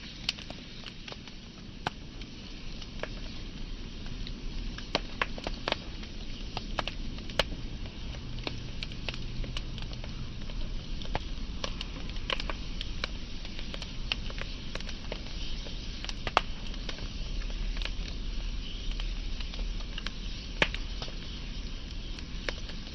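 Wood fire burning, with irregular sharp crackles and pops over a steady low rumble and hiss.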